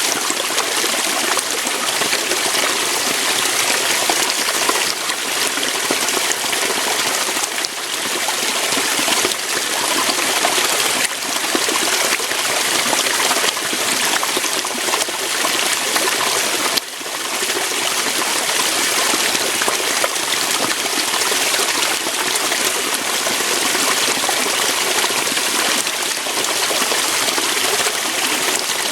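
Waterfall: water rushing steadily over rocks, a constant even splashing with a brief dip in level about seventeen seconds in.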